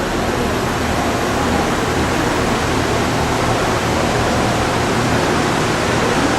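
Steady rushing noise with a low hum, the ambience of a boat ride's water channel through a greenhouse.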